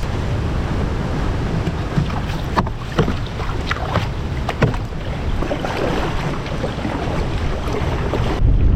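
A canoe moving on choppy open water: water splashing and lapping against the hull, with a few sharp knocks, under a steady low rumble of wind on the microphone. The wind rumble gets louder near the end.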